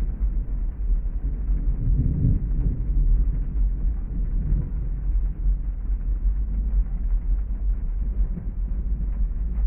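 Heavy rainstorm ambience: a steady low rumble under a dull rain hiss, swelling briefly about two seconds in.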